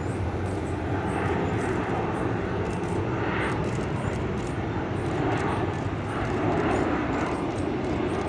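Jet airliner's turbofan engines running, a steady noise with no clear change in pitch.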